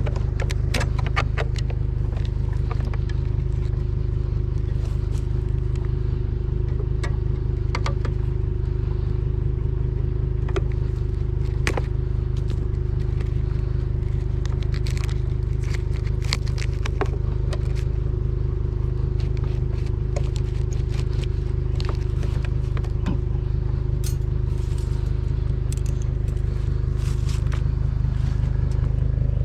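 Pickup truck driving, a steady low engine and road rumble as heard inside the cab, with scattered clicks and rattles throughout.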